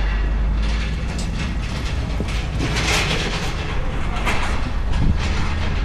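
A vehicle engine running with a steady low rumble, with louder hissy surges a few times.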